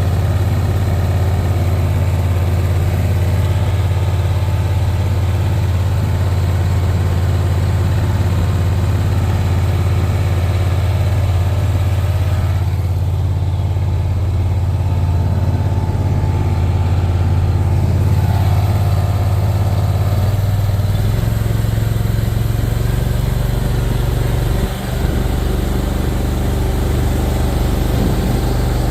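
An engine running steadily, with its pitch dropping to a lower steady note about twenty seconds in.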